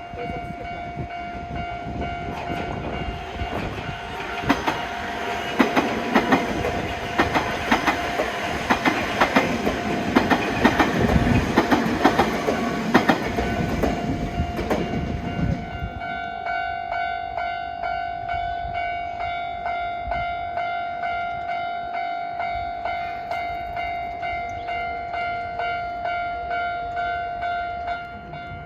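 A train passes over the level crossing for about the first fifteen seconds, its wheels clacking over the rail joints, while the crossing's warning bell rings. After the train clears, the bell keeps ringing at about one and a half strikes a second until it stops near the end.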